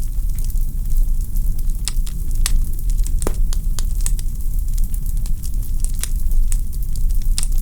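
Wood fire crackling in a fireplace: burning logs give off irregular sharp snaps and pops, several a second, over a steady low rumble, with one louder pop about three seconds in.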